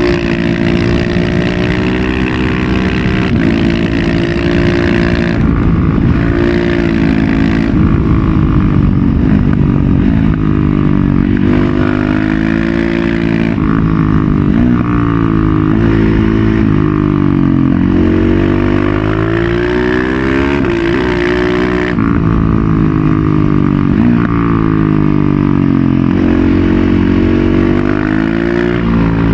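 KTM 690 SMC-R single-cylinder engine through a Leo Vince Evo One full aftermarket exhaust, loud, on the move: the engine pitch rises and falls again and again as it accelerates, shifts and rolls off the throttle.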